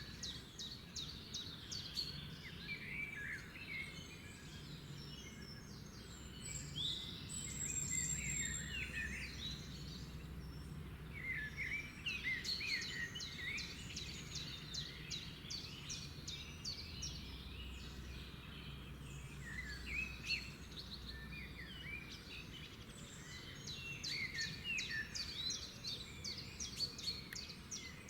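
Several songbirds chirping and singing together, with bursts of fast repeated-note trills, over a low steady rumble.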